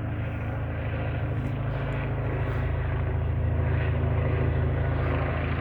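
Police helicopter flying overhead: a steady rotor beat and engine drone that grows slightly louder as it comes closer.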